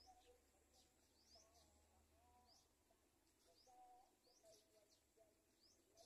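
Faint bird calls: short rising high chirps repeated every half second to a second, over fainter lower warbling notes.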